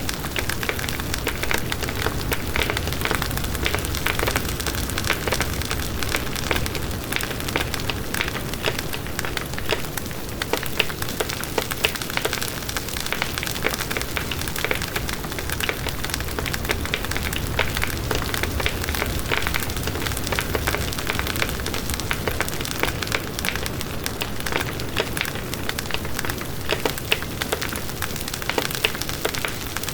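Wood fire burning in a fireplace, crackling steadily: dense small pops and snaps over a continuous hiss and low rumble of the flames.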